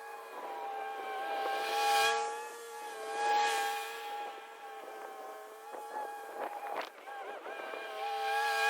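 Lawn mower running, a steady high whine with two louder surges of rushing noise about two and three and a half seconds in.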